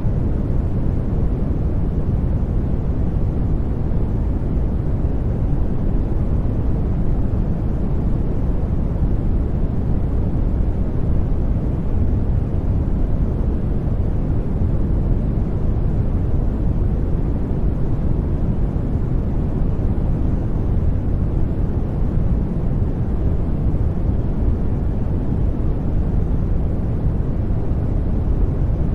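Steady white-noise track for studying, a continuous even hiss weighted toward the deep end, with no change or events.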